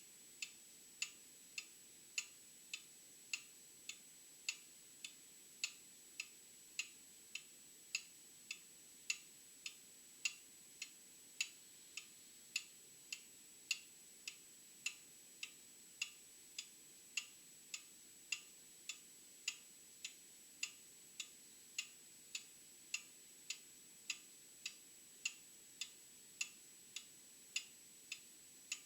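Old clock ticking steadily, a little under two ticks a second, the strokes alternating louder and softer in a tick-tock.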